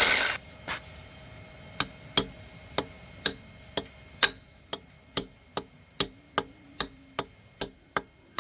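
A short burst of noise, then a steady series of sharp ticks or taps, about two or three a second, coming a little quicker near the end.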